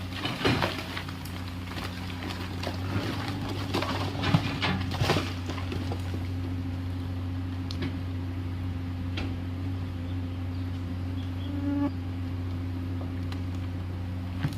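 Komatsu PC210LC excavator's diesel engine running steadily under work, with a series of clanks and scrapes in the first six seconds and a few lighter knocks later.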